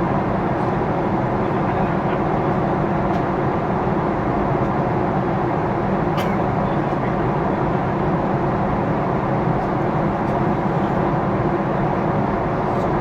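Steady cabin noise inside a Boeing 777-300ER: the even rumble of its GE90 engines and the airflow, with one faint click about six seconds in.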